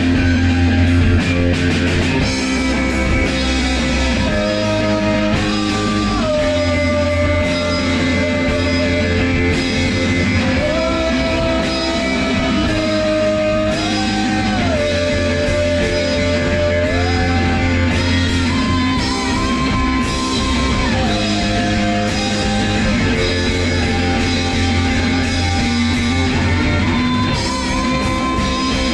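Rock band rehearsing, with electric guitar and bass, playing a passage without words. A lead line of long held notes slides from one pitch to the next over a steady bass.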